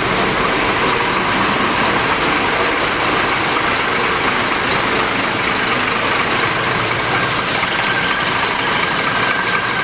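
Scania K410IB double-decker bus running, a steady engine drone mixed with even road and cabin noise.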